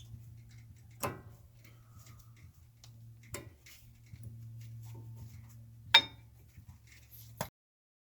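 Four sharp metallic clinks and knocks, as of tools or brake parts being handled, the third one loudest and ringing briefly, over a low steady hum; the sound cuts off abruptly near the end.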